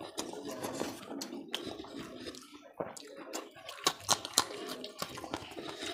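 Close-miked wet chewing and lip-smacking of a mouthful of rice and curry eaten by hand, with many short wet clicks and squelches.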